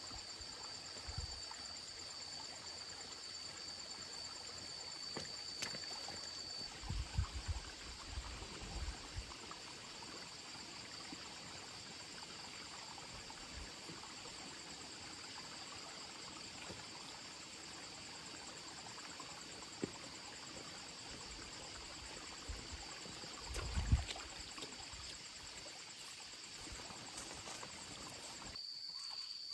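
Insects chirring steadily in a high, constant chorus, with a few low, soft thumps: a cluster about seven to nine seconds in and another about 24 seconds in.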